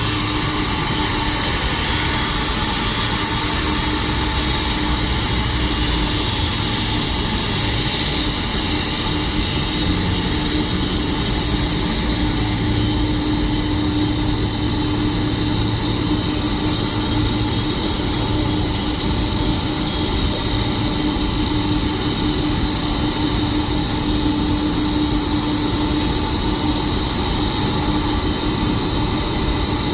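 Boeing 747-400's jet engines running at idle with a steady whine and rumble as the airliner taxis in to the gate.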